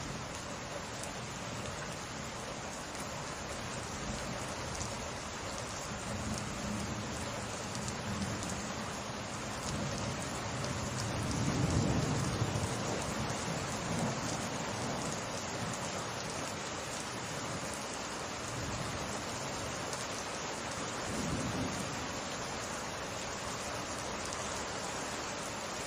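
Steady rain falling in a summer rainstorm. A low rumble of thunder swells and fades about halfway through, and a shorter one follows later.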